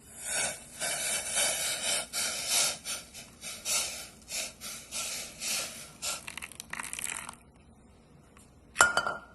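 Hot water being poured into a bowl: an uneven, pulsing splashing pour that lasts about seven seconds and then stops, followed by a short sharp clatter near the end.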